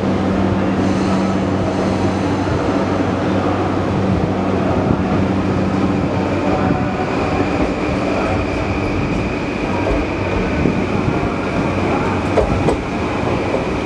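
A JR East E235 Yamanote Line electric commuter train pulling out of the platform: a steady rumble of wheels and traction motors. A low hum fades out about halfway through as a higher steady tone comes in.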